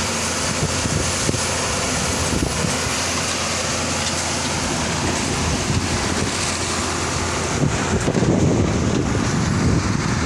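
ABJZ40C concrete mixer pump running steadily: a continuous engine drone under a broad mechanical rush. About three-quarters of the way through, the low rumble turns rougher and louder.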